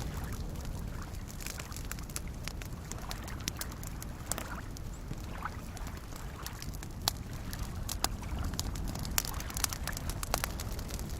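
Campfire crackling with irregular sharp pops, over the steady low wash of small waves lapping at a lakeshore. The pops come more often in the second half.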